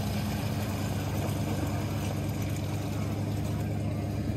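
An engine running steadily at low speed, a constant low hum.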